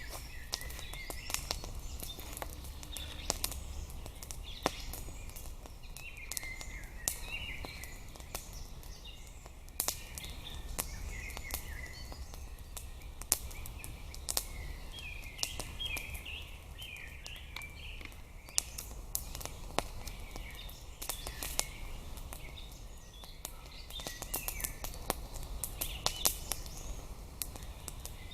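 Songbirds chirping and singing in a forest, with scattered sharp clicks and snaps throughout and a low background rumble.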